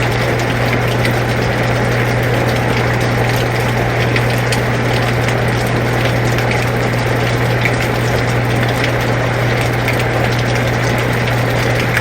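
Air conditioner running with a steady low hum, under falling rain with scattered drops ticking.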